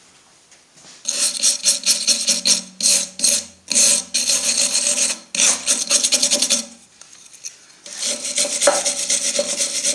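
Hand brush scrubbing corrosion off an aluminium casting in quick back-and-forth scratchy strokes. It starts about a second in, pauses briefly near the seven-second mark, then resumes.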